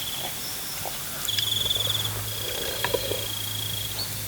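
An insect trills steadily at a high pitch, the trill briefly breaking off and resuming. A low hum joins about a second in, and there are a few faint clicks.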